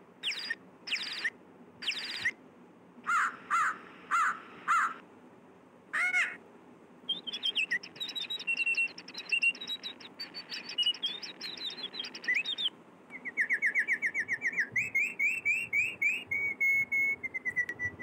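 Birds singing and calling: a handful of separate sweeping calls in the first few seconds, then rapid chirping trills, and near the end a fast run of short notes stepping down in pitch.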